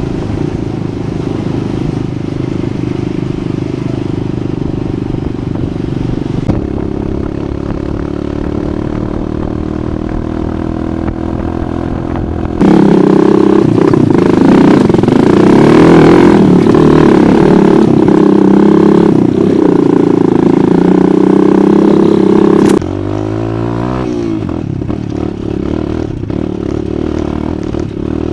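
Off-road dirt bike engine running while riding, its note rising and falling with the throttle. A much louder stretch in the middle starts and ends abruptly, and after it the engine note drops in pitch.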